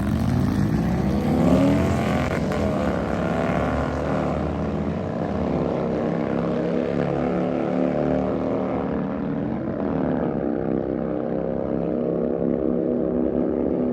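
Drag-racing motorcycle engines running hard down the quarter mile, the pitch climbing and dropping back several times as the bikes shift up through the gears, growing duller as they pull away.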